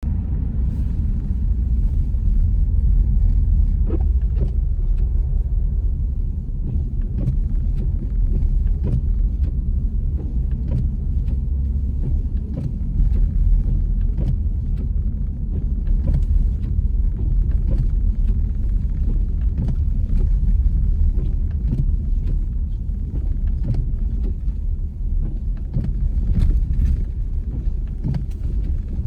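A car driving: a steady low road rumble, with faint short ticks scattered through it about every second.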